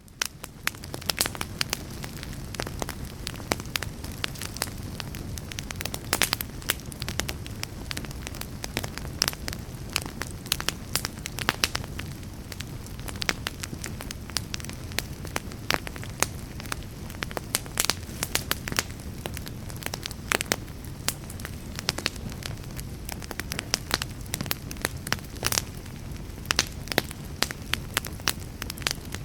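Wood fire crackling in a fireplace: sharp irregular pops and crackles, several a second, over a steady low rumble, fading up from a brief drop in the first second.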